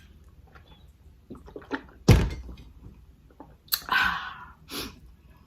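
A single heavy thump about two seconds in, with a few light clicks and a short scraping or crunching noise just after it, the sounds of handling things at the table.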